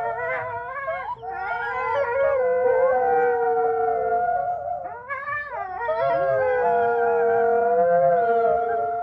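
Several canines howling together: long overlapping howls at different pitches, wavering and sliding, with brief breaks where new howls start around one and five seconds in.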